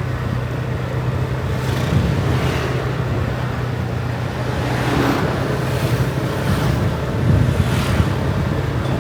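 Motorbike engine running at a steady pitch while riding in traffic, with several other vehicles briefly swelling past.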